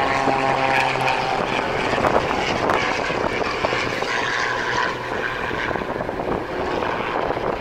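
Four highly tuned piston-engined aerobatic aircraft flying in formation, their propeller engines droning together. The drone has a clear, steady pitch for about the first second and then spreads into an even, throaty engine noise.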